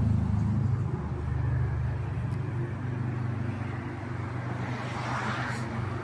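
Motor vehicle engine idling with a steady low hum. A short rush of hiss comes about five seconds in.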